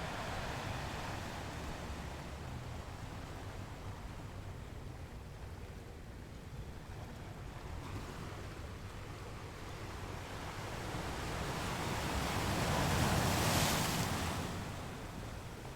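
Ocean surf: a steady wash of water that builds slowly to one loud breaking wave about thirteen seconds in, then falls away.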